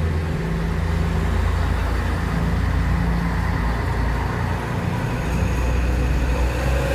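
Heavy truck engine running at low revs with a steady low drone, amid road traffic.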